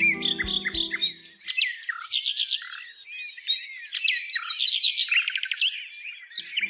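Several songbirds singing at once, with overlapping chirps and rapid trills. Soft background music stops about a second in and comes back near the end.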